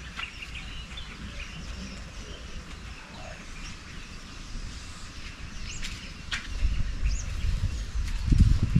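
Birds chirping now and then, a handful of short, high calls. A low rumble builds over the last couple of seconds.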